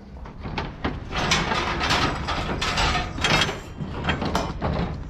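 Irregular knocks and clattering of mixed scrap being handled and unloaded from a truck, several bangs a second at uneven spacing.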